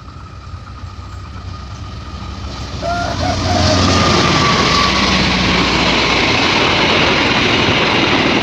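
Diesel train approaching and passing close by. The engine rumble builds over the first three seconds or so, then gives way to a loud, steady rush of wheels on the rails.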